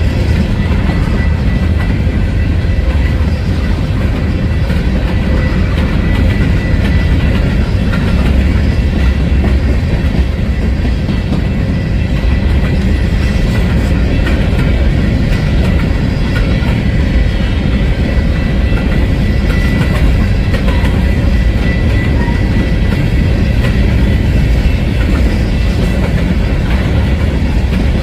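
A train rolling past on the rails: a steady, loud rumble of wheels and cars with clickety-clack, and a faint high whine held throughout.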